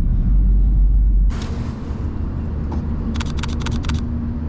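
A low rumble that cuts off abruptly just over a second in, followed near the end by a Lumix S5 mirrorless camera's shutter firing a rapid burst of about seven clicks in under a second.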